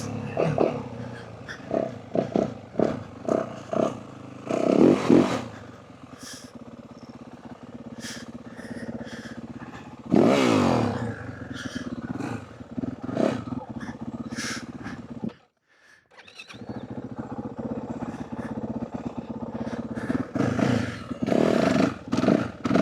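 Yamaha WR450F dirt bike's 450 cc single-cylinder four-stroke engine, running near idle and revved hard several times with quick rising blips, as clutch and throttle are worked to lift the front wheel. The sound breaks off for about a second two-thirds of the way through, then the engine carries on.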